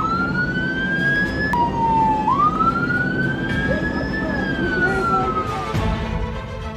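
Police car siren wailing: it rises in pitch twice, then falls slowly and stops near the end.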